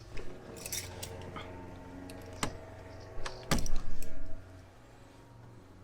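Hand tools and parts being handled: scattered clicks and light taps, with a louder clatter about three and a half seconds in.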